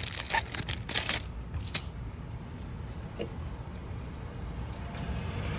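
Plastic packaging crinkling as a new water-pump gasket is handled, with a run of sharp crackles over the first couple of seconds, then only a low steady background rumble.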